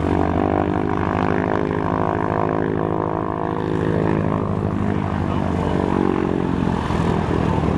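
WWII-era piston-engine propeller aircraft running, a loud steady drone.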